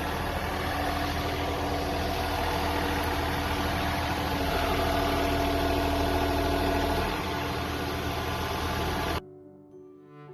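John Deere 3046R compact tractor's three-cylinder diesel engine running steadily. It cuts off abruptly about nine seconds in, giving way to soft cello music.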